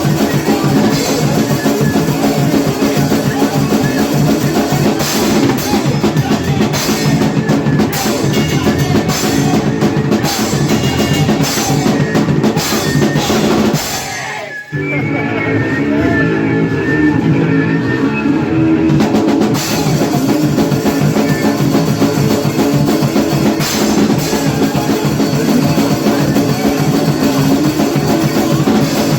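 Hardcore punk band playing loud, fast music on distorted guitar, bass and drum kit. About halfway through, the music drops out for a moment. A guitar-led passage without cymbals follows for about five seconds, then the full band comes back in.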